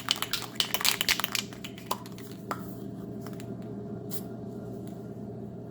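Aerosol spray paint can being shaken, its mixing ball rattling rapidly for about the first second and a half. After that the steady hum of a shop exhaust fan, with a couple of single clicks.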